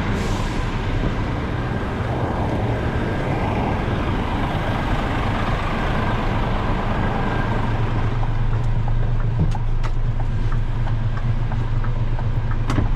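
Lorry's diesel engine running steadily with a low hum. A few sharp clicks come in the last few seconds.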